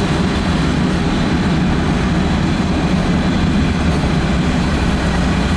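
Freight cars rolling past close by: a loud, steady rumble of steel wheels on the rails.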